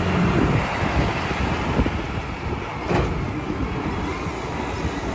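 Garbage truck's diesel engine running with a low rumble that eases off early, and one sharp knock about three seconds in.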